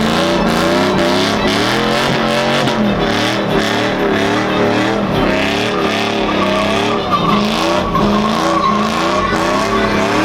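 Car engine revving up and down over and over under heavy throttle, with tyres squealing as the car spins donuts in a sideshow. About six seconds in, a steady high tyre squeal comes in over the engine.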